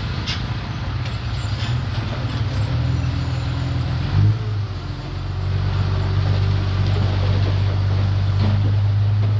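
Komatsu D31PX bulldozer's diesel engine running under load, with a short loud knock about four seconds in, after which the engine's low drone grows louder and steadier.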